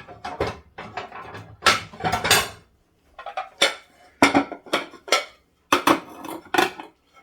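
Crockery and cutlery clattering in a kitchen as food is served: a string of sharp clinks and knocks, about ten in a few seconds.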